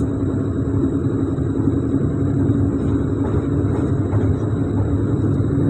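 Electric multiple-unit train running on the rails: a steady rumble of wheels and running gear, with a steady low hum and a faint high-pitched whine.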